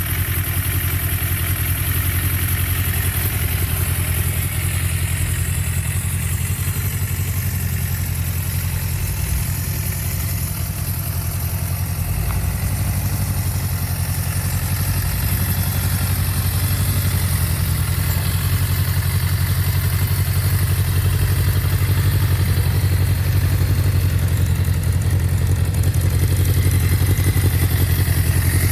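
Suzuki Impulse 400 motorcycle's inline-four engine idling steadily through its exhaust muffler, growing slightly louder in the last third.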